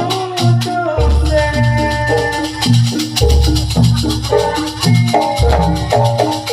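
Live jaranan gamelan-style music: a stepping melody of struck metal notes over a steady beat. Deep low strokes come about every two seconds, with a dense jingling rattle on top.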